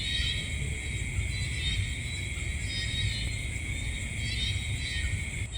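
Night chorus of crickets or other insects: a steady high-pitched trill, with short calls falling in pitch that recur every second or so, over a low rumble.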